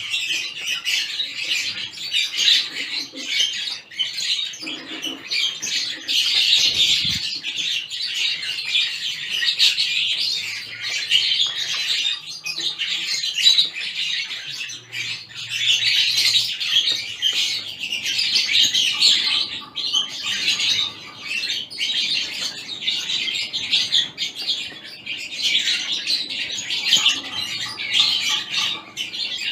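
A mixed flock of small aviary finches (zebra finches, Gouldian finches, society finches, canaries and others) chirping and calling without pause, many high, short calls overlapping into a busy chatter.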